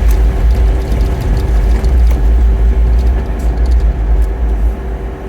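Jeep Wrangler driving slowly: a steady low rumble of engine and tyres with a faint hum above it, easing off about five seconds in as the vehicle slows.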